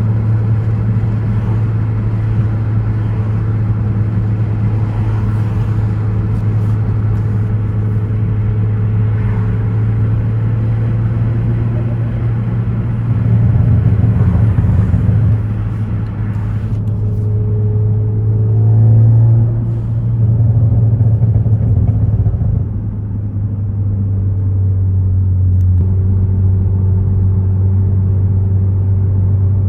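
Ford Focus ST's turbocharged 2.0-litre four-cylinder engine and exhaust giving a steady low drone while driving, swelling louder a few times about halfway through, with a brief rise and fall in pitch as the throttle is worked.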